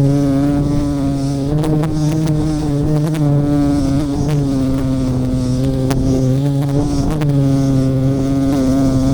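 A colony of giant honey bees buzzing loudly around the hive: a steady, low, droning hum that wavers slightly in pitch, with a few sharp clicks scattered through it.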